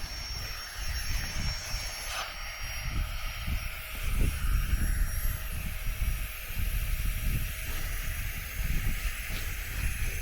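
Flextail Gear battery air pump whirring steadily as it inflates a Thermarest X-Therm sleeping pad, with wind buffeting the microphone underneath.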